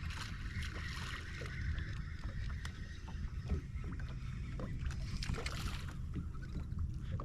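Water lapping against the hull of a fishing boat on a river, over a steady low rumble, with scattered small clicks and ticks.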